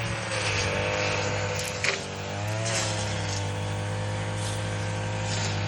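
Tractor engine running steadily while working the ground, its pitch dipping briefly and recovering about two and a half seconds in.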